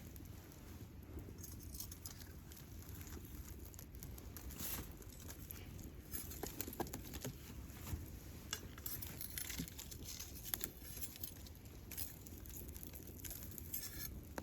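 Wood campfire crackling, with irregular small pops and ticks over a low steady rumble.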